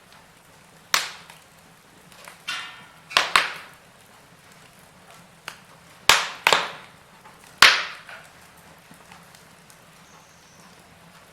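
Wood fire crackling: a handful of sharp pops and snaps, some in quick pairs, over a faint steady background, with a brief hiss about two and a half seconds in.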